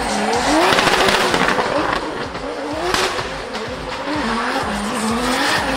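Drift car engine revving up and down in repeated rising sweeps while its tyres screech through a slide.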